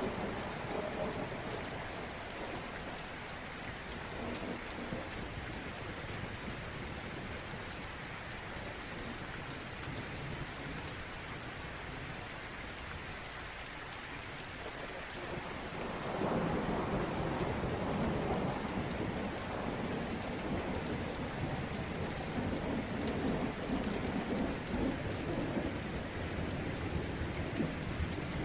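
Steady rain with thunder rumbling, fading at the start and swelling up again about halfway through, louder from then on. Fine crackles of a wood fire are scattered throughout.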